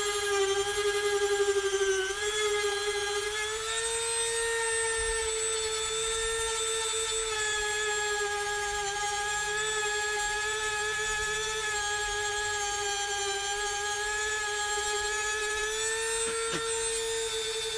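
WEN Dremel-style rotary tool with a diamond disc running with a steady high whine, grinding down dried silicone. The pitch dips about two seconds in, climbs back, and wavers slightly as the disc is worked.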